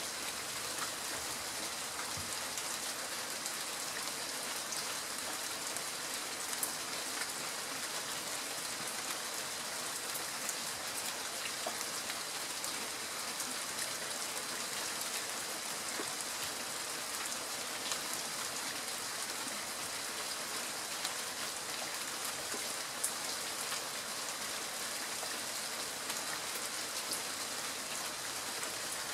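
Steady rain falling on foliage: an even hiss with scattered sharper drop ticks.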